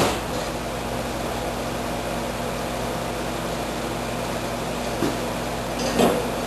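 Steady mechanical hum, with a sharp knock right at the start and another knock about six seconds in.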